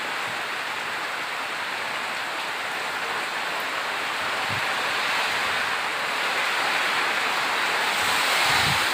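Steady rain falling, an even dense hiss that grows slightly louder near the end, with a brief low rumble of wind on the microphone just before the end.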